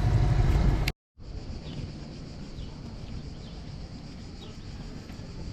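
A dinghy's outboard motor running, cut off abruptly about a second in. After that, a steady high insect buzz of crickets or cicadas with scattered short bird chirps.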